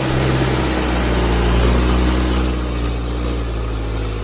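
Heavy truck engine running hard and steady under load, a deep low-pitched drone: a laden truck labouring up a steep grade.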